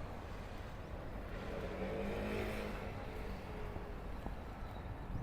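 A motor vehicle passing by on a street, its engine note swelling and fading over about two seconds, over a steady low traffic rumble.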